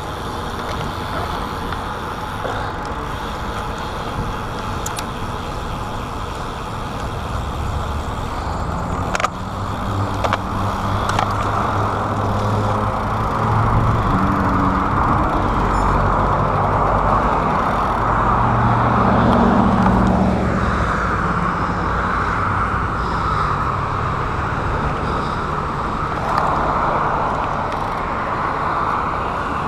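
Wind rushing over a chest-mounted action camera on a moving bicycle, with motor traffic passing alongside. Engine noise builds from about eight seconds in, and a vehicle passes close around twenty seconds in, its pitch dropping as it goes by.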